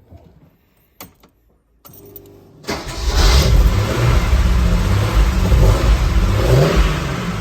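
A click, then the 1965 Mercedes-Benz 230 SL's straight-six cranks briefly on the starter and catches almost three seconds in. It runs on at a steady fast cold idle of about 1600 to 1700 rpm.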